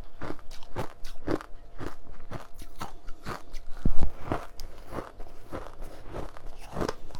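Ice being bitten and chewed close to the microphone: a rapid series of crisp crunches, with one loud low thump about four seconds in.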